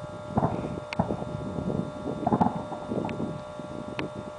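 Fireworks going off at a distance: irregular low muffled thumps, the loudest a little past two seconds in, with a few sharp cracks, heard through wind on the microphone and a steady faint hum.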